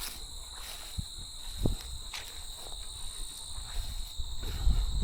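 Steady high-pitched chorus of insects in a summer field, several tones trilling at once without pause. A few soft knocks and low rustling noise come and go.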